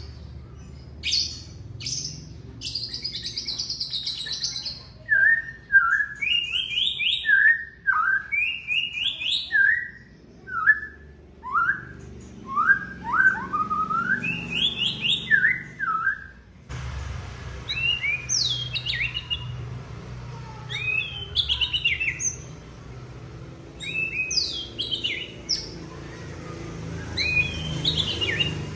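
White-rumped shama (murai batu) singing: a varied run of loud whistled phrases, quick rising and falling notes repeated in short series. About halfway through the recording changes, with more background hiss behind the song.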